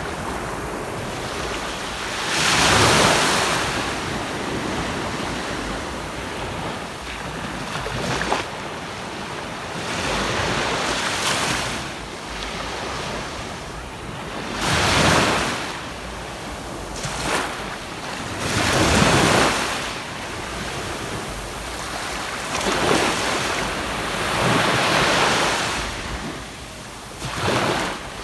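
Sea waves breaking and washing up a sandy beach, swelling to a louder surge every few seconds over a steady wash. Wind rumbles on the microphone underneath.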